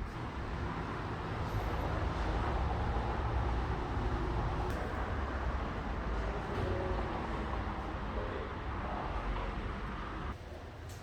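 Fire department ladder truck's engine running: a steady low rumble with road noise that cuts off abruptly near the end.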